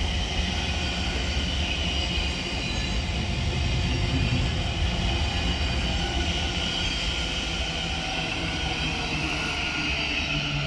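Thameslink Class 700 electric multiple unit running into the station: a steady rumble and hiss of the train along the platform.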